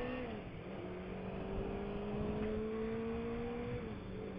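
Suzuki 600 motorcycle engine under way, its pitch dropping just after the start, then climbing slowly for about three seconds as the bike gathers speed, and dropping again near the end, over wind and road noise.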